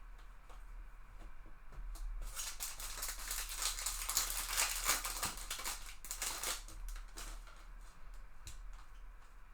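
A foil trading-card pack wrapper being opened: a few light clicks of handling, then a crinkling, tearing rustle for about four seconds starting a couple of seconds in, then light clicks again.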